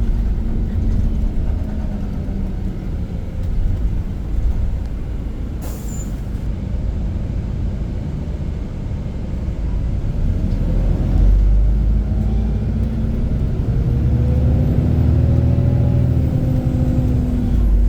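Iveco Crossway LE 14.5 m bus on the move, its diesel engine running with road noise. It eases off around the middle, then the engine note rises as the bus accelerates again in the second half.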